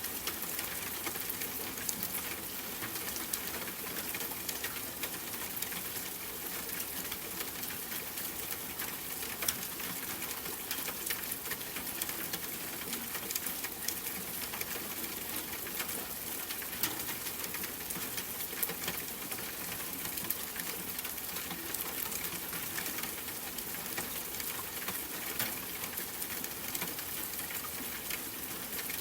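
Steady rain falling, an even hiss with a dense patter of individual drops.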